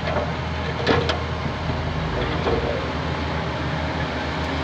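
Heavy diesel engine of earthmoving equipment running steadily, with a couple of short knocks about a second in.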